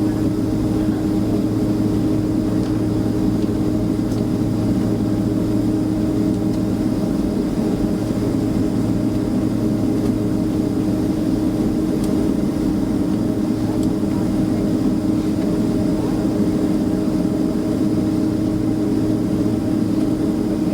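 Steady engine and air-conditioning hum inside a Boeing 767-300ER jetliner's cabin, the engines running at low power without spooling up. The pitch of the low hum shifts slightly about a third of the way through.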